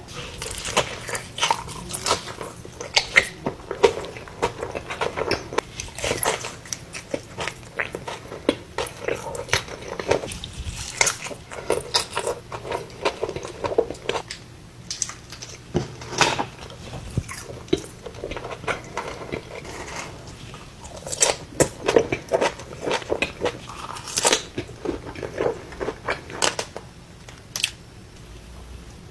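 Close-miked eating sounds of In-N-Out fast food: repeated crunchy bites and wet chewing, a dense run of sharp crackles and smacks that thins out for a couple of seconds past the middle.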